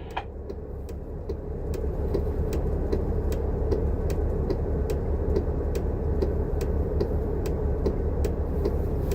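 Transit bus driving, heard from the driver's seat: a steady low engine and road rumble that builds over the first couple of seconds. Light, regular ticks sound about two or three times a second throughout.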